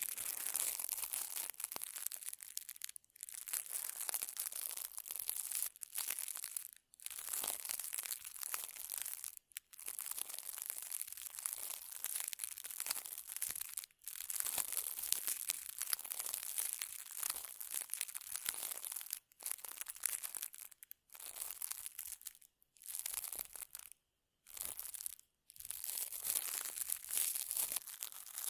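Close-miked crinkly, scratchy rustling from ASMR touch triggers, in long stretches with short pauses between them.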